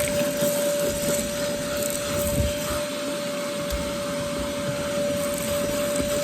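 Vacuum cleaner running with a steady whine, its nozzle sucking debris out of car carpet.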